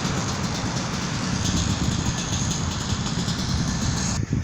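Steady motor vehicle noise, engine and road sound together, which cuts off abruptly near the end.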